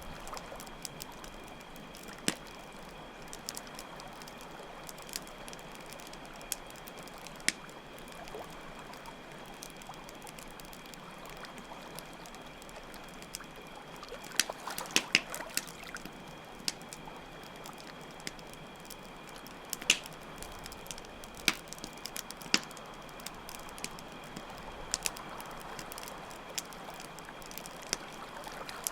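Campfire crackling with scattered sharp pops, a cluster of them about halfway through, over a steady trickle of running water and a constant chorus of chirping crickets.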